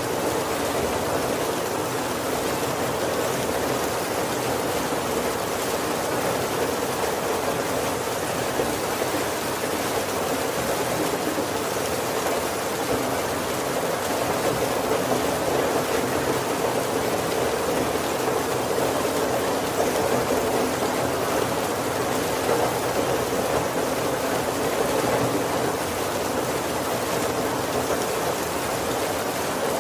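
Heavy rain falling steadily on the roof and windows of a wooden carriage: a dense, even patter with no thunder.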